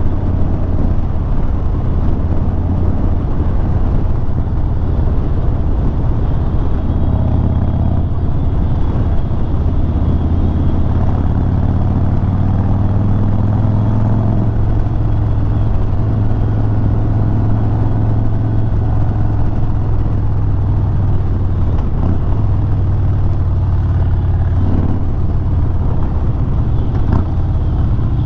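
Harley-Davidson Sport Glide's Milwaukee-Eight V-twin running steadily at road speed, its note rising a little about ten seconds in, with wind noise over the microphone.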